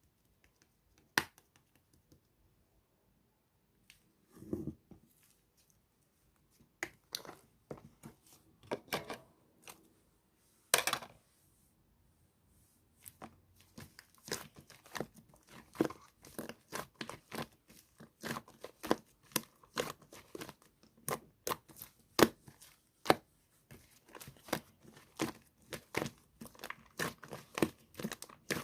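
Fluffy white clay slime being squished and stretched by hand, making sticky pops and clicks. A few scattered pops at first, then a quick, irregular run of them from about halfway in.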